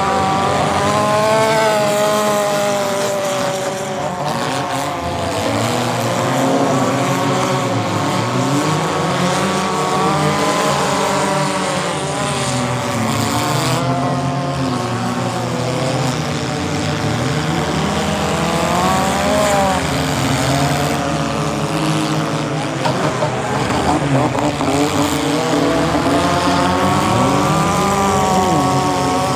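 Engines of several compact race cars revving, many at once, each rising and falling in pitch as the cars accelerate and back off around the track.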